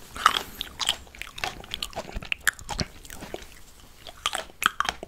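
Close-miked chewing of fresh fruit: irregular wet crunches and mouth clicks, a few each second.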